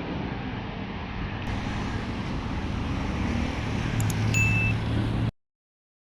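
Steady urban traffic noise with a low rumble. About four seconds in, a short ding rings out over a low hum, and the sound cuts off abruptly a second later.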